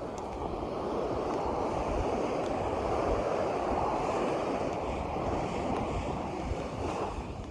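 Steady rushing of wind and water, with wind buffeting the microphone in low, uneven rumbles.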